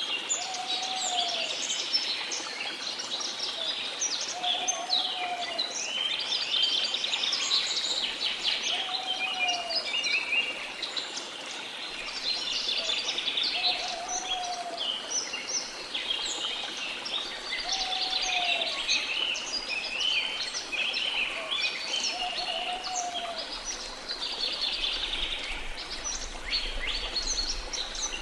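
Many small birds chirping and twittering continuously, with a short lower whistled note repeating about every four seconds, over a faint steady wash of sea.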